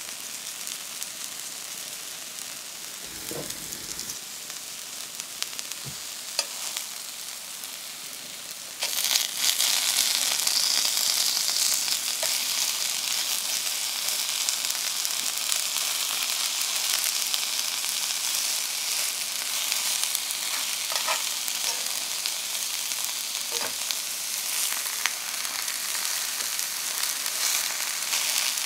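Aubergine wedges sizzling in hot oil in a pan, a steady hiss that grows suddenly louder about nine seconds in. A few light clicks come before that.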